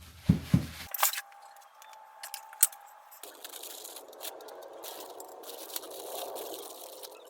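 A few sharp knocks in the first three seconds, then a run of scraping and small clicks, like tools and metal hardware being handled. The sound changes abruptly twice, as if short clips are cut together.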